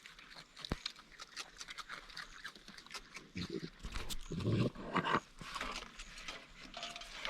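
Raccoons feeding: scattered crunching and clicking of food being chewed and picked over, with a few short low grunts or growls around the middle.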